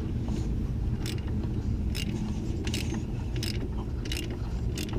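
Hand ratchet turning a long bolt that presses a part onto its shaft, with a short burst of clicks on each back-swing about once every two thirds of a second, over a steady low hum.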